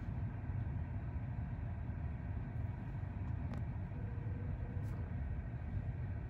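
Steady low rumble of a Sounder commuter train hauled by an MP40PH-3C diesel locomotive, pulling away from the station.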